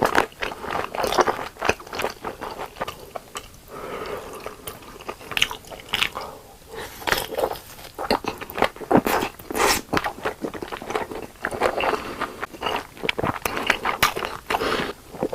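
Someone biting into and chewing sausages (hot dogs): irregular crunches and clicks of chewing, with no pause.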